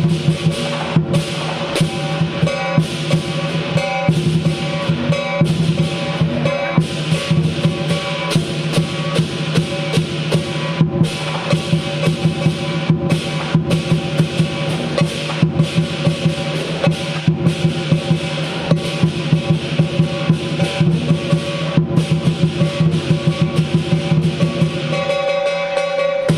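Lion dance percussion: a big drum beaten in rapid, driving strikes with ringing cymbals, playing continuously.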